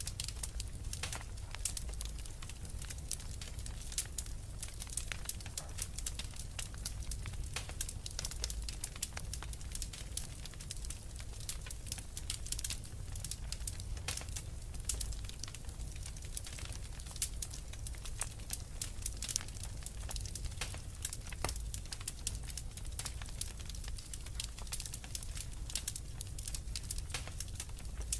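Fireplace fire crackling, with many sharp irregular pops over a steady low rumble.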